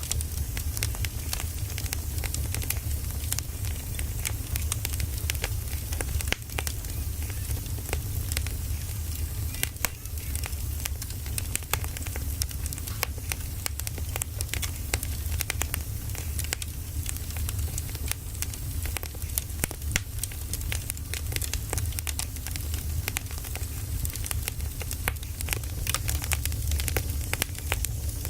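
Wood fire crackling, with frequent irregular sharp pops over a steady low rumble and hiss.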